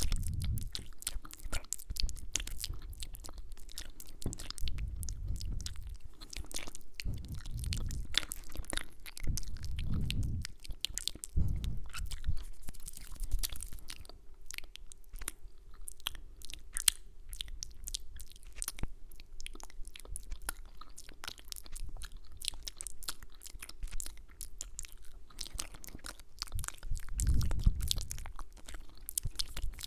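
ASMR mouth sounds and kisses close to the microphone: a steady stream of rapid wet clicks and lip smacks, with a few soft low thuds in between.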